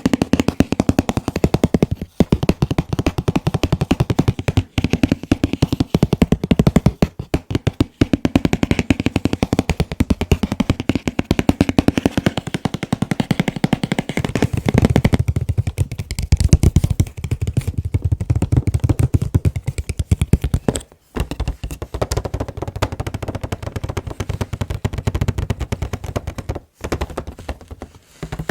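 Fast, continuous fingertip tapping on an anime figure's packaging box, many taps a second, with a few short pauses and a heavier, deeper stretch in the middle.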